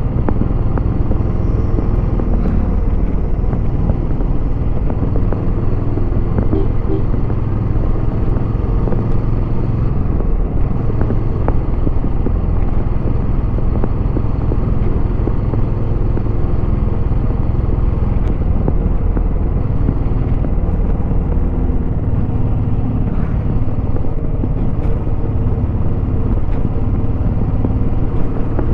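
Royal Enfield Bullet 350X's single-cylinder engine running through its stock exhaust while riding, the note shifting a little in pitch as the engine speed changes.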